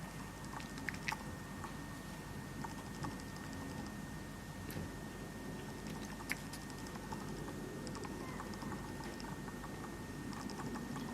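Domestic cat chattering at birds: short runs of rapid, faint clicking from its jaw, with a few sharper single clicks between them.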